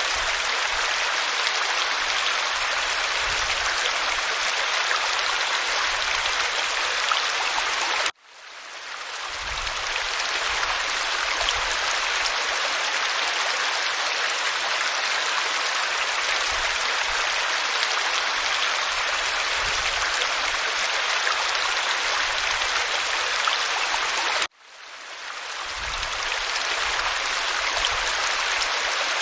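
Waterfall water pouring onto rock, a steady rushing. It cuts out suddenly about eight seconds in and again some sixteen seconds later, each time fading back up within a couple of seconds.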